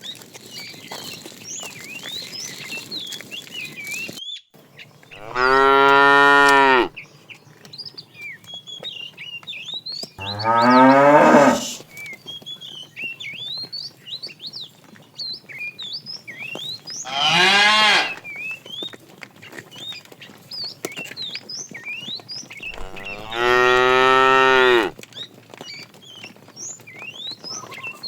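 Cattle mooing: four long, loud moos a few seconds apart, each lasting one and a half to two seconds.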